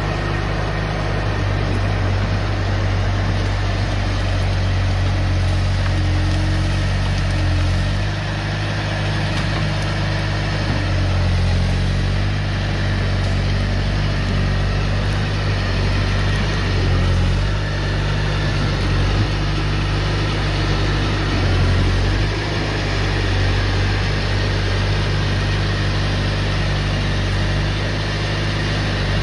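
Bobcat T250 compact track loader's diesel engine running steadily, its pitch shifting slightly a few times as the load changes.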